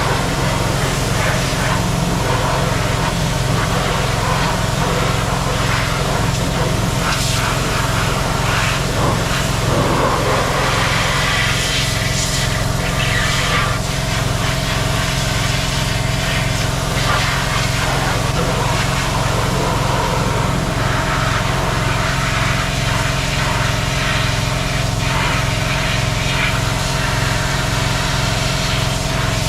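An engine running steadily at a constant speed, with a strong low pulsing hum.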